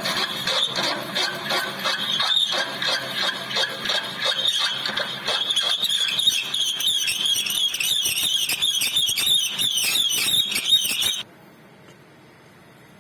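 Metal lathe cutting an internal left-hand thread: the threading tool squeals against the steel with a fast, pulsing chatter, and the sound cuts off suddenly near the end, leaving a faint hum.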